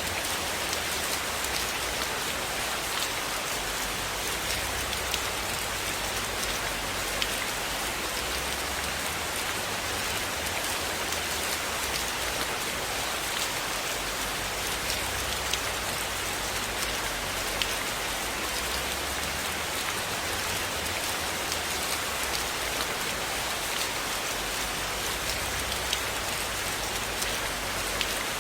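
Steady rain falling on a surface, an even hiss with scattered sharp ticks from individual drops.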